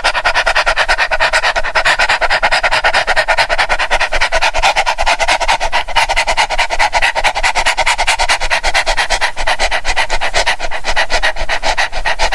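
A dog panting rapidly and evenly, about seven to eight breaths a second.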